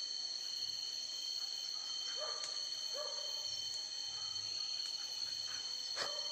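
Steady high-pitched insect drone of forest cicadas and crickets, with a few short animal calls near the middle and two sharp clicks, one in the middle and one near the end.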